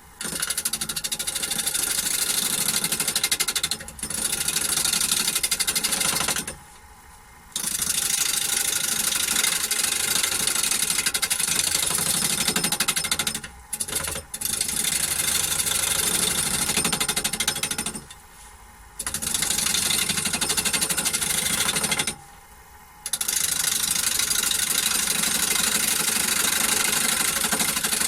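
Spindle gouge cutting a spinning wood workpiece on a Holzmann D460FXL lathe: a loud, hissy shaving sound of the tool on the wood. It breaks off for about a second several times, when the tool is lifted and only the lathe's quiet running is left.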